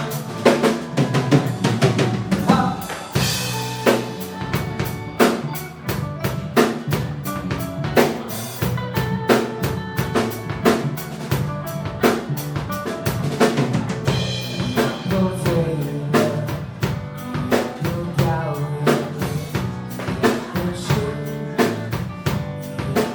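A band playing an instrumental passage, with a drum kit keeping a steady rhythm of bass drum, snare and rimshots under pitched instruments and no singing.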